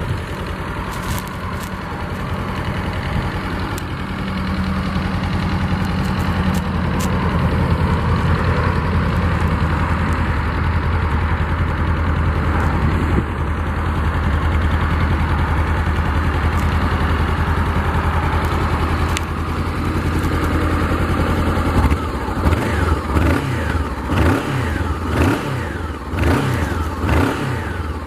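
2014 Honda CB500's parallel-twin engine idling steadily through its stock exhaust, then revved in several quick throttle blips over the last six seconds.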